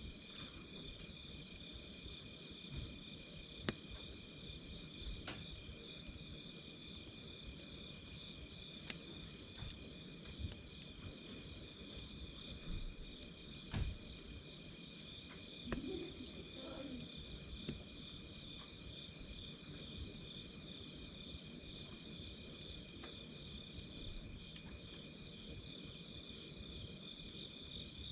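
Campfire crackling and popping in scattered sharp snaps over a low rumble, with a steady high chorus of crickets chirping.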